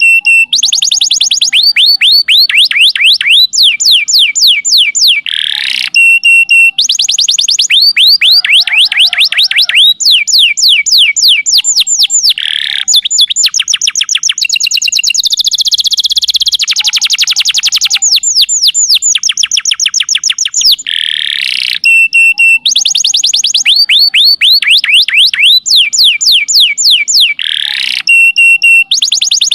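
Domestic canary singing a long, unbroken song of fast trills, many quick repeated falling notes with short held whistles and quick rising sweeps between them. It is a master recording of canary song, used to teach young canaries and to prompt other canaries to sing.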